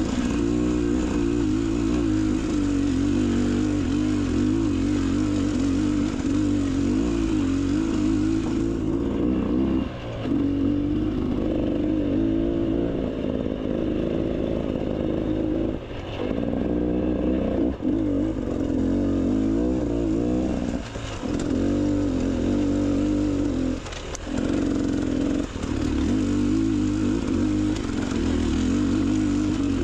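Beta Xtrainer 300 two-stroke dirt bike engine running under changing throttle on trail, its pitch rising and falling constantly, with the throttle briefly cut several times.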